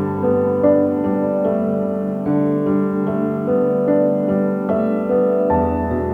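Soft, slow piano music: held chords with single notes changing about every half second, a new low bass note entering near the end.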